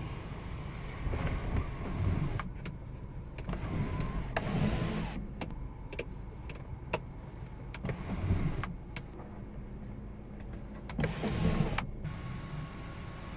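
A car's electric controls being worked: scattered sharp clicks and short motor whirs over a steady low hum.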